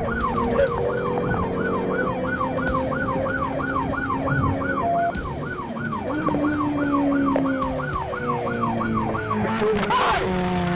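Police car siren on a fast yelp, sweeping up and down about three times a second, over vehicle noise from the pursuing car.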